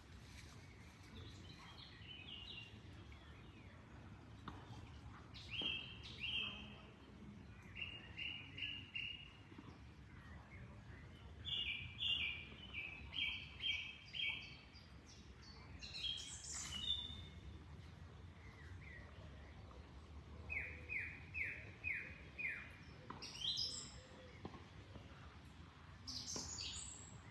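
Songbirds chirping in repeated quick runs of four to six notes, with a few higher calls in between, over a faint steady rush of flowing water.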